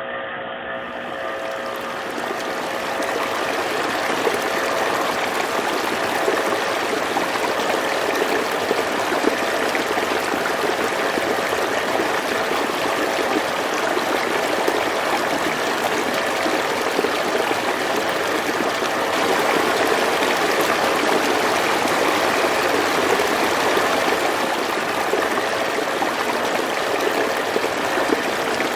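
Water running steadily in a continuous flow, with a faint steady hum underneath.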